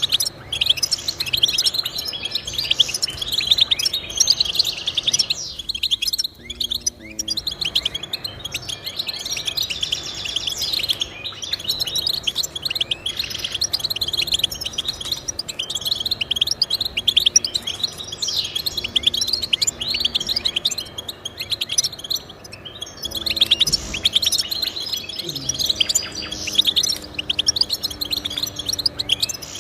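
Goldfinch singing: a continuous, rapid twittering of chirps and trills that eases off briefly about six seconds in.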